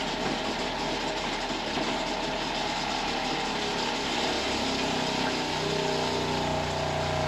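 Truck shower's electric water pump running while still purging air from the line. About four and a half seconds in, a steady pitched hum comes in over the noise.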